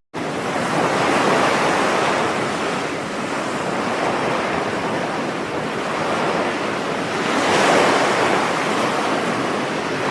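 Ocean surf: a steady wash of waves that swells about a second in and again near the end.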